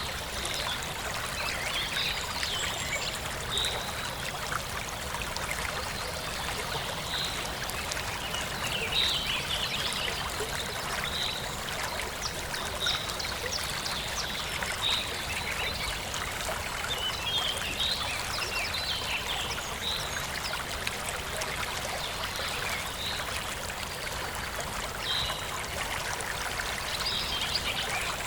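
Forest stream running steadily over rocks, with small birds chirping: short high chirps every second or two.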